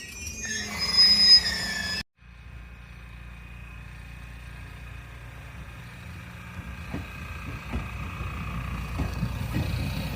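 JR Kyushu 821 series electric train approaching: a steady low rumble that grows louder, with wheels clacking over rail joints from about seven seconds in. Before it, a short stretch of high tones that cuts off suddenly about two seconds in.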